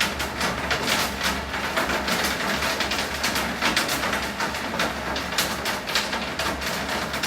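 Heavy rain pouring down, with many close drops and drips splattering sharply over a dense hiss and a steady low rumble underneath.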